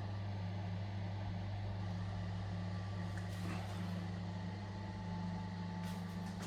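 Window exhaust fan's electric motor running with a steady low hum, with a few faint light clicks.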